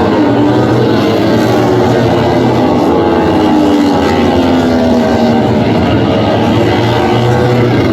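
Several MotoGP racing motorcycle engines running at high revs, their pitches rising and falling as the bikes accelerate and brake.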